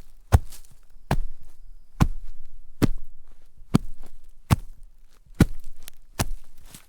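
Footsteps walking in shallow snow, a steady pace of about one crunching step every second, eight steps in all.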